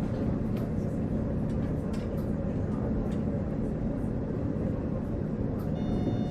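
Running sound inside a KiHa 48 diesel railcar: a steady engine and wheel rumble with occasional faint clicks from the track. Near the end a steady high tone begins over the rumble.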